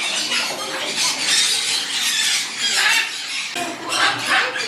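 Pet birds at a bird cafe squawking and screeching, a run of harsh, high calls that overlap one another.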